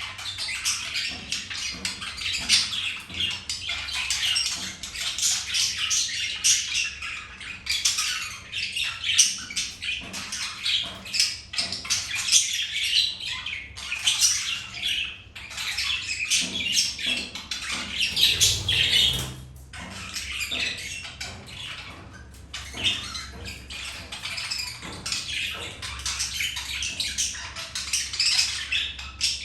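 Budgerigars chattering: a continuous run of rapid squawks, chirps and warbles, easing off briefly about two-thirds of the way through.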